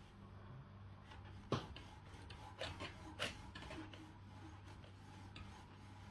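Faint rubbing of a rag wiping a bicycle disc brake rotor, with a few sharp clicks and knocks as the rotor is handled, the loudest about a second and a half in.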